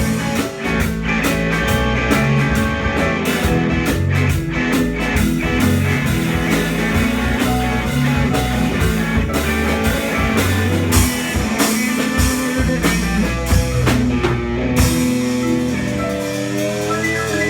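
Rock band playing: a drum kit and guitar over a steady bass line.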